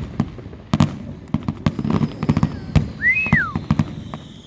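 Fireworks going off in quick succession: many sharp bangs and crackles, with a high whistle that starts about two seconds in and slowly falls in pitch.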